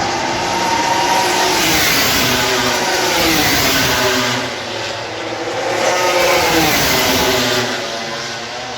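Racing motorcycles passing at speed on the track, their high engine notes rising and falling as they go by, in two loud waves with a brief dip between.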